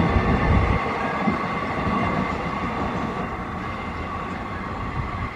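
Loaded BOXN freight wagons rolling past on the track, with steady high-pitched ringing over the rumble. The low rumble drops away about a second in and the sound then fades as the train draws away.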